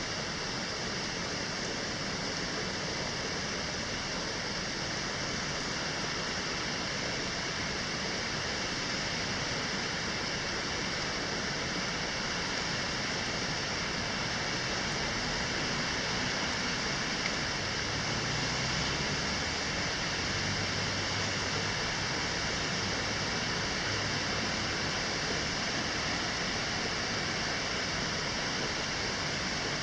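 Steady rain with wind, an even unbroken hiss like soft white noise.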